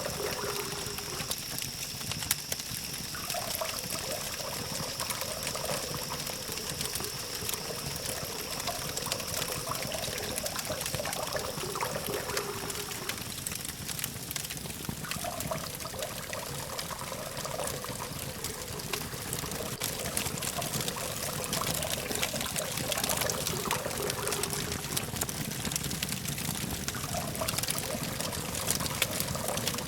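Campfire burning with a steady hiss and many sharp crackles and pops, over a low steady hum of distant traffic. A faint steady high tone runs through the first half and stops about halfway.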